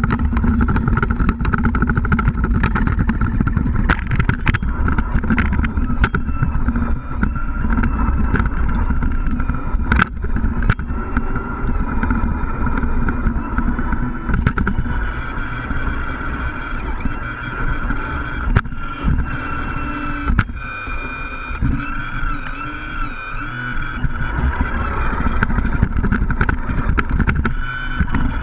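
Scale RC trucks running, a steady low engine-like rumble with a steady higher whine on top and occasional short clicks.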